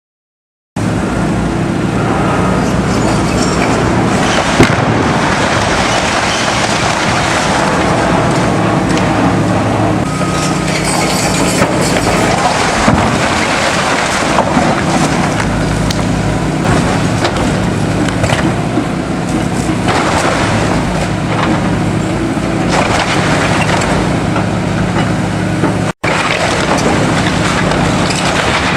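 Heavy demolition equipment's diesel engine running steadily, with repeated crunching and crashing of building debris being torn down.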